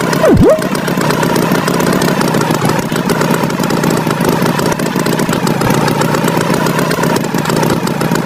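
Cartoon tractor engine running steadily. Just after the start, a quick swooping sound dips low in pitch and rises back.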